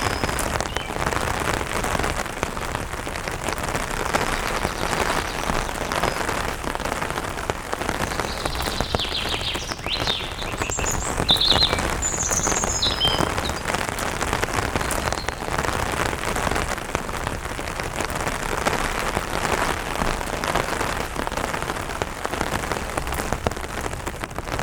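Light rain pattering on an umbrella canopy, a dense steady patter of drops. Between about 8 and 12 seconds in, a bird gives a few short high chirps over the rain.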